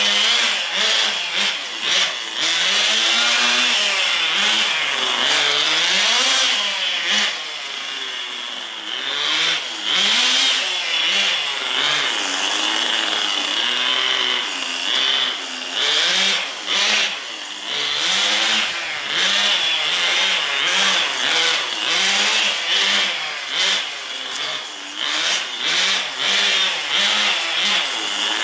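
Small nitro glow engine of a Tamiya TGS 1/10-scale RC car running. Its pitch keeps rising and falling every second or two as the car speeds up and slows down while being driven around.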